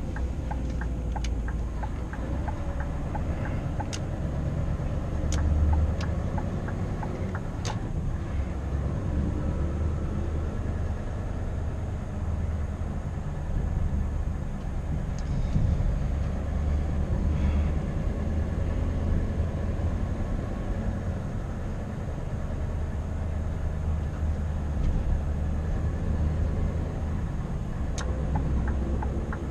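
Scania R520's V8 diesel engine running under way with a steady low drone. Evenly spaced ticking is heard near the start and again near the end, with a few sharp clicks in between.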